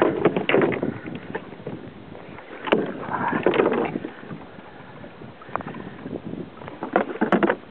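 Water splashing and knocking at the side of a kayak in irregular bursts.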